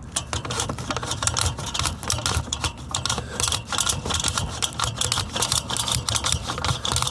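Sewer inspection camera and its push cable being forced through a cast-iron drain line: a dense, continuous rattle of clicks and scrapes as the camera head knocks along the pipe, struggling to get through.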